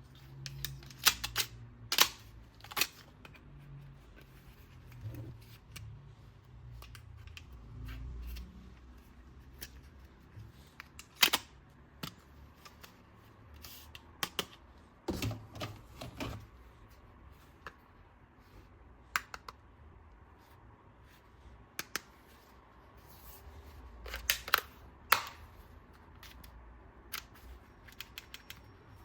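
Hard plastic toy weapon parts being handled during unboxing: irregular sharp clicks and knocks in small clusters, with quiet stretches between.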